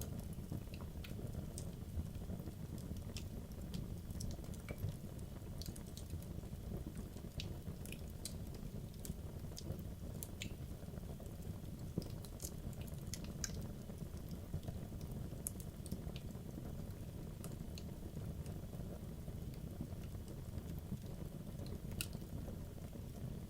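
Wood logs burning in a fireplace: a steady low rumble of flame with frequent irregular sharp crackles and pops from the burning wood.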